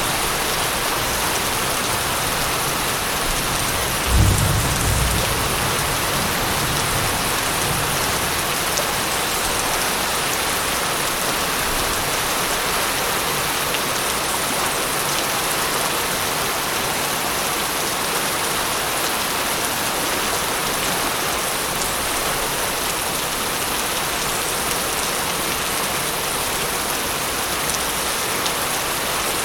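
Steady heavy rain hissing on surfaces, with a roll of thunder about four seconds in that rumbles low and dies away over a few seconds.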